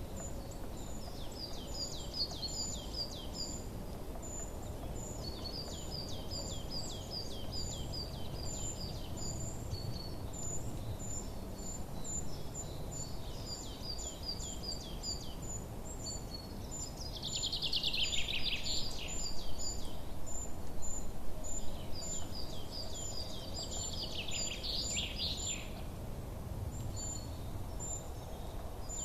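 Songbirds chirping in short repeated phrases, with a high note repeating steadily throughout and two louder trills that fall in pitch, about 18 and 25 seconds in, over a steady low background rumble.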